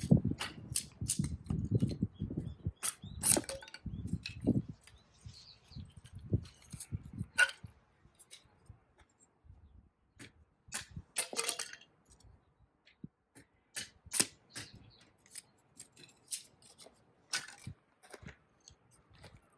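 Scattered sharp clicks and knocks, a few at a time. Over the first few seconds a low rumble, typical of strong wind buffeting the microphone.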